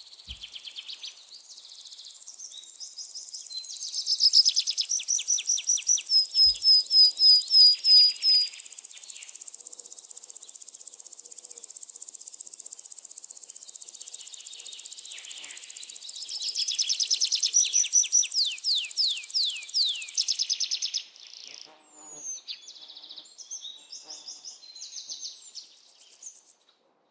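Small songbirds singing rapid trills and fast runs of repeated chirps over a steady high insect drone. About two-thirds of the way through, the insect drone cuts off and shorter, scattered chirps follow.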